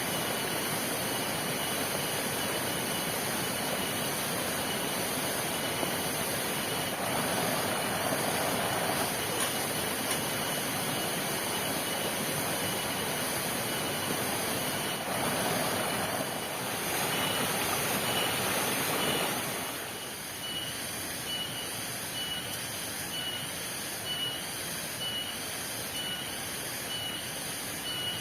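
Heavy rain falling as a steady hiss, swelling twice and easing off noticeably about twenty seconds in.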